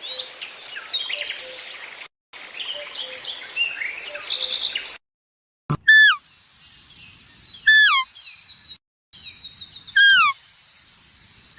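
Several birds chirping and singing over one another. After a cut, a louder bird call repeats three times, each a short falling note, over a steady high buzz.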